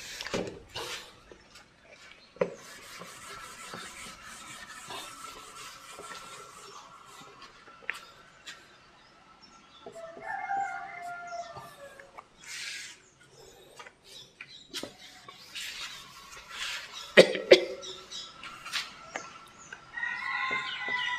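A bird calling twice, about ten seconds in and again near the end, over light scraping and tapping of a marker writing on a whiteboard, with one sharper knock a little past halfway.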